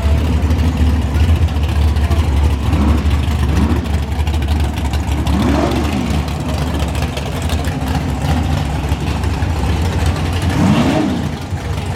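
Car engine idling with a deep, steady rumble, blipped about four times in short revs that rise and fall.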